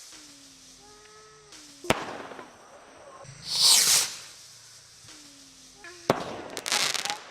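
Consumer fireworks going off: a sharp bang about two seconds in, a loud hissing burst near four seconds, another bang about six seconds in followed by a quick run of crackling pops near the end.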